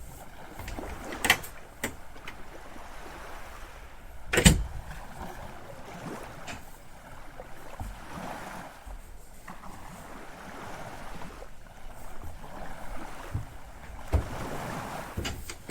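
Water washing along a sailboat's hull as it moves, rising and falling in swells, broken by a few sharp knocks, the loudest about four and a half seconds in.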